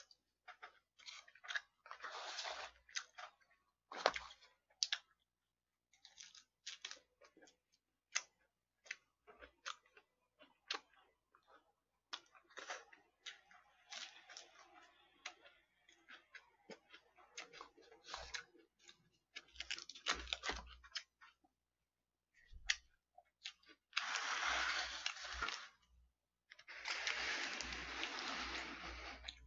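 Close-miked eating: chewing and crunching of food, with scattered clicks from a spoon and plastic take-out containers. Two longer rushes of noise come near the end.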